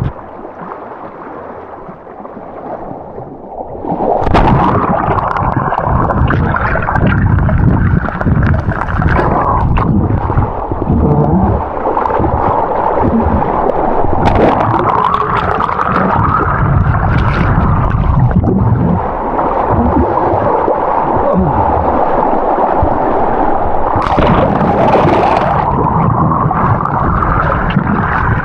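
Swift river current rushing and gurgling, heard muffled underwater while swimming; quieter for the first few seconds, then loud and steady from about four seconds in.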